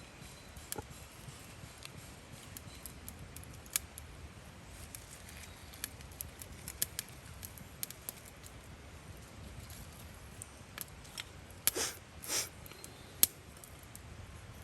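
Wood campfire crackling: irregular sharp pops and clicks, with two louder, longer pops about twelve seconds in, over a low steady rumble.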